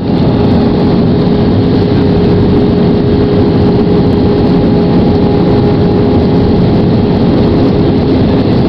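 Steady roar of an Airbus airliner heard from inside the passenger cabin: engine and airflow rush with a constant droning hum over it.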